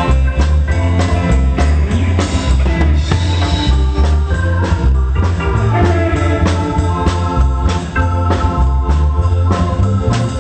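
Live pop band playing an instrumental passage: an organ-voiced keyboard carries the melody over drum kit and bass guitar.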